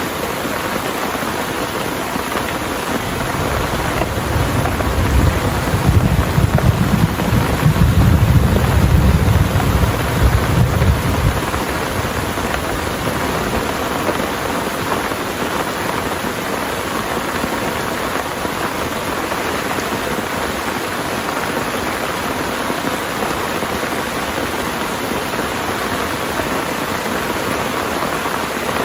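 Heavy rain falling steadily, with a long low roll of thunder that builds a few seconds in, peaks, and dies away about eight seconds later.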